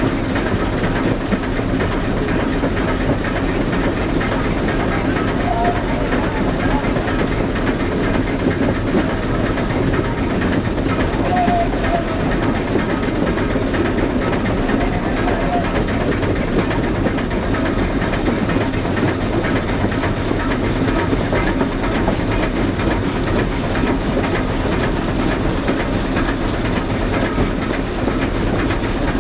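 A train drawn by a 2-4-4-2 articulated steam locomotive running along, heard from an open observation car: a steady rumble and clatter of wheels on the rails, even throughout.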